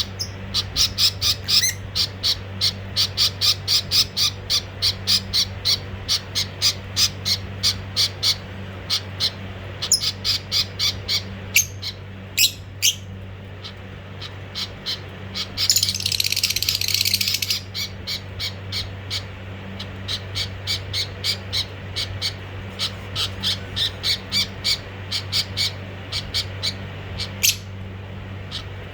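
Budgerigars calling in long runs of short, sharp chirps, several a second, with a harsh screech of about a second and a half just past the middle.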